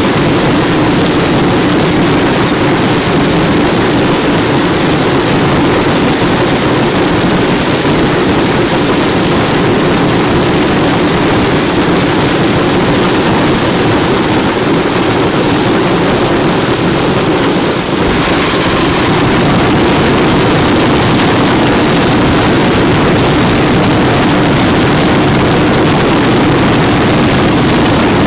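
Dense, continuous barrage of daylight fireworks, the bangs merging into one steady, loud roar with no gaps, and a brief dip just before the last third.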